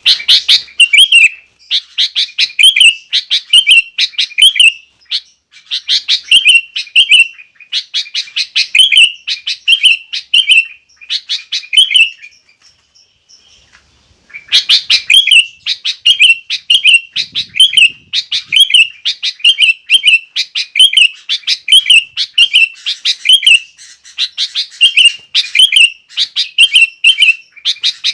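Sooty-headed bulbuls singing energetically in fast, repeated chirping phrases. The song stops for about two seconds midway, then resumes.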